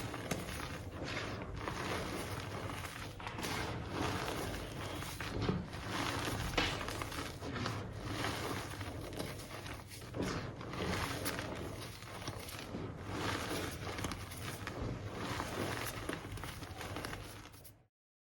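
Hands playing in loose chalky powder, a continuous soft crunching and squeaking texture with many small crackles. It cuts off suddenly near the end.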